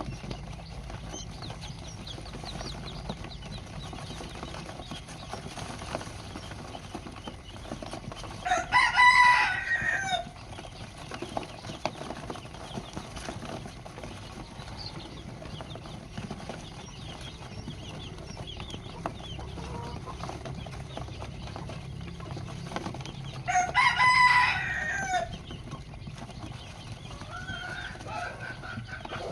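A rooster crowing twice, about fifteen seconds apart, each crow about a second and a half long, with a fainter call near the end and soft clucking in between.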